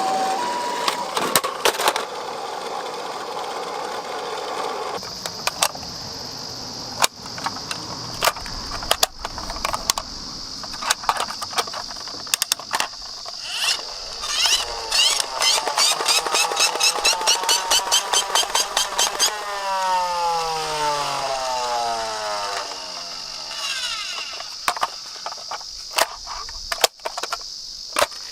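Die-cast toy minicars (garbage trucks and ambulances) clattering and knocking as they roll down a slope, with many sharp clicks and a fast run of clicks in the middle. A two-tone hi-lo beep ends about a second in, and a sliding falling tone comes about two-thirds of the way through.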